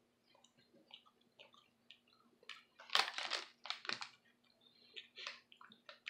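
Close-up chewing of candy-shelled M&M chocolates: quiet, scattered crunches of the shell, with the loudest cluster about halfway through.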